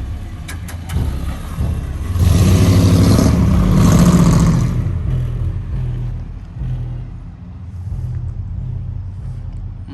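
A car engine running, revving up loudly about two seconds in as the car accelerates, then easing back to a steady run.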